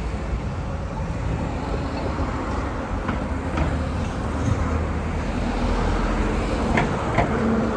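Street traffic going by, a low engine rumble that builds a little toward the end, with a few faint brief ticks.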